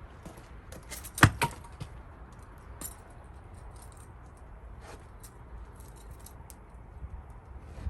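A Gränsfors Bruk axe strikes a round of cherry wood about a second in, with a second knock right after it. Split pieces then clatter and clink a few times.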